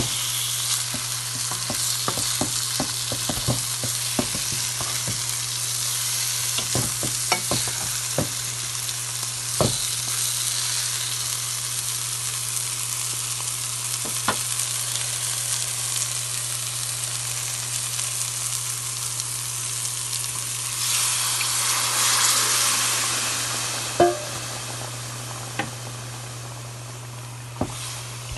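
Chicken curry masala frying and sizzling in a metal pan while a wooden spoon stirs it, the spoon clacking and scraping against the pan many times, mostly in the first ten seconds. About 21 seconds in, the sizzle swells for a couple of seconds. A single knock follows, and then the sizzle settles quieter.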